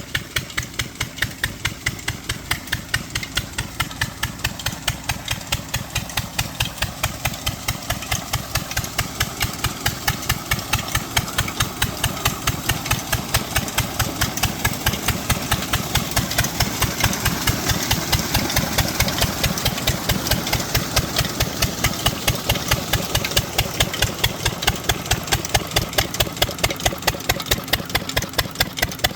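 Lister-type slow-speed stationary diesel engine running steadily, each firing stroke a separate, distinct beat, about five a second.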